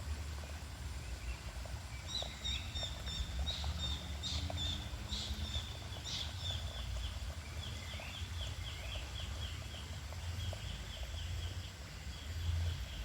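A bird calling in the forest: repeated high notes, then a fast run of short chirps in the second half, over a steady low outdoor rumble.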